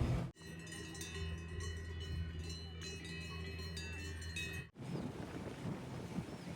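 Several cowbells ringing irregularly at once, their clanking tones overlapping, over a low steady background hum. The sound cuts out abruptly twice, about a third of a second in and again roughly two thirds of the way through.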